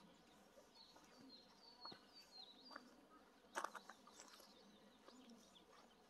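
Faint outdoor quiet with a small bird giving a run of short, high, falling chirps in the first half, and a brief soft knock a little past the middle.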